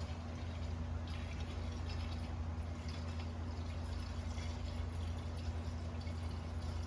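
Coolant being poured steadily into a radiator's filler neck, a continuous liquid rush over a constant low hum.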